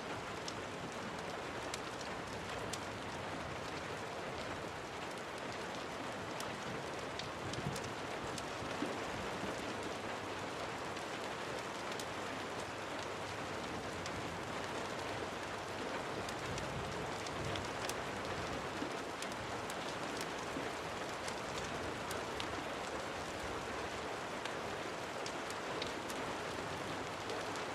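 Steady rain falling, with many scattered sharp ticks of drops or crackles.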